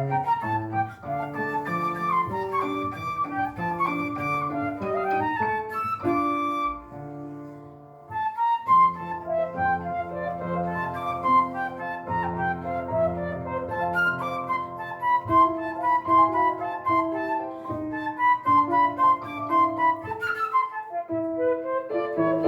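Flute playing a melody with piano accompaniment. The music fades to a soft, held passage about six seconds in, then comes back at full strength about two seconds later.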